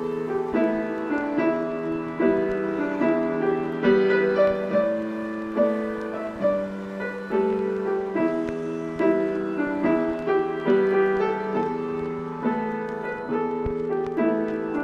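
Background music: a piano playing a gentle melody over chords, notes struck and left to ring.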